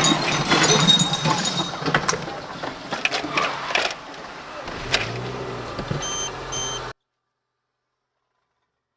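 Car cabin noise from a moving car, with scattered clicks and knocks. Two short beeps sound about six seconds in, then the sound cuts off abruptly.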